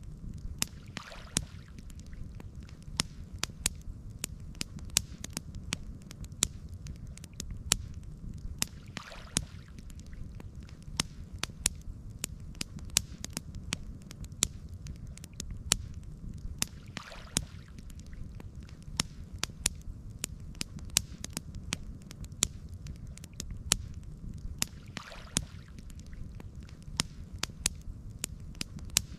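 Campfire burning, crackling with frequent sharp pops and snaps over a steady low rumble of flames. A soft hissing swell comes back about every eight seconds.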